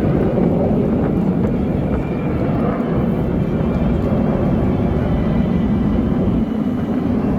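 Steady low rumble of the Black Eagles' T-50B jet trainers' turbofan engines flying in the display.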